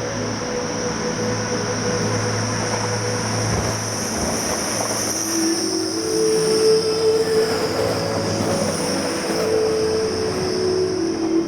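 Passenger train's wheels squealing on the rails as it moves through the station: a steady high-pitched squeal over the rumble of the train. Lower steady tones join about halfway through.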